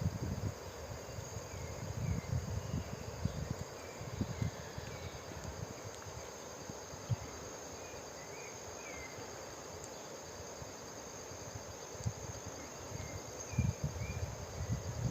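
Forest insects trilling steadily at a high pitch, with scattered faint chirps and gusts of wind rumbling on the microphone, strongest near the start and the end.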